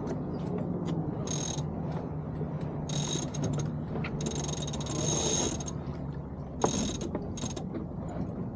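Sailboat winch ratcheting in several short bursts as a sheet is hauled in and trimmed.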